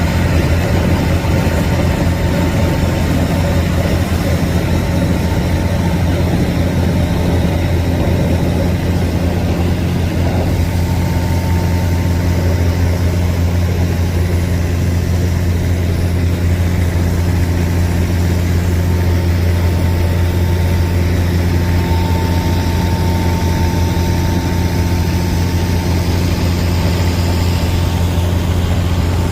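Fishing boat engine running steadily at constant speed, a deep even drone that neither rises nor falls.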